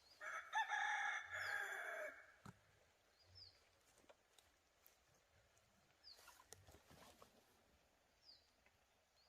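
A rooster crowing once, about two seconds long, near the start. A few short, high, falling bird chirps are scattered through the rest.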